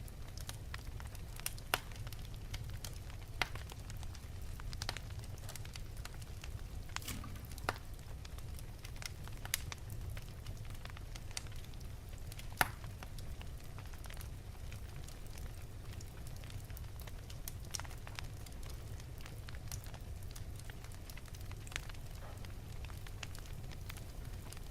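Fire burning in an open fireplace: scattered sharp crackles and pops over a steady low rumble of the flames. The loudest pop comes about halfway through.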